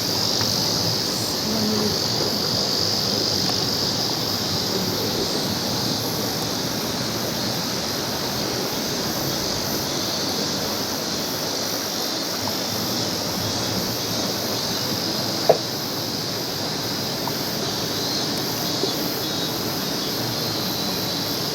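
Mountain stream rushing: a steady, even wash of flowing water, with one short click about fifteen seconds in.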